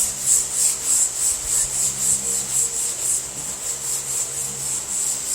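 Hand block sanding of a car body panel: sandpaper on a rounded tube sanding block scrubbing back and forth in a steady hissing rhythm of about three strokes a second.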